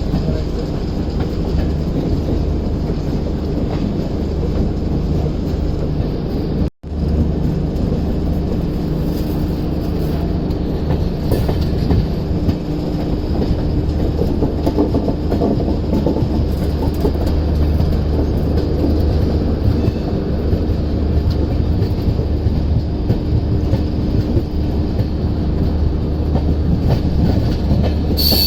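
Passenger train running along the track: a steady loud rumble of wheels on rails with clickety-clack from the rail joints. A split-second gap in the sound about seven seconds in.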